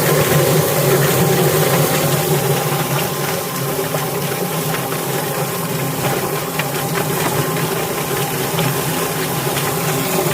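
Yardbird electric chicken plucker running with two scalded birds tumbling against its rubber fingers: a steady motor hum under a wet, rattling wash of water. The motor cuts off right at the end.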